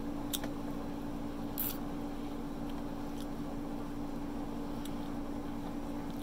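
A person biting and chewing a breaded chicken wing close to the microphone: a few short, sharp crunchy clicks, the loudest about a second and a half in, over a steady low hum.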